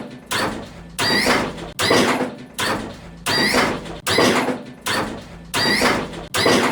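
Hydraulic lowrider hopping in a steady rhythm: about nine bounces, a bit under a second apart. Each bounce is a bang as the car lands, with a squeak from the suspension.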